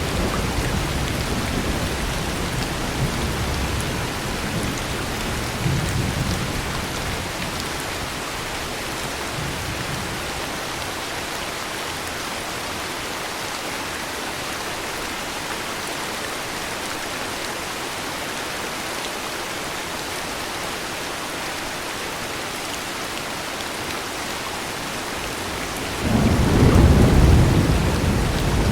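Heavy rain falling steadily, with low thunder rumbling in the first few seconds and dying away; near the end a loud roll of thunder breaks in suddenly.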